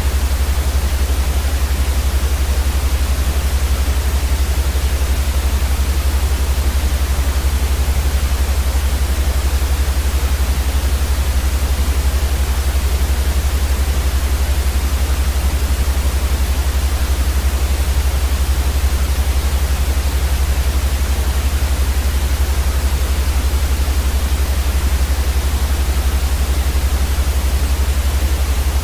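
Steady electronic white noise for sleep: a constant, even hiss with a strong low rumble beneath it, unchanging throughout.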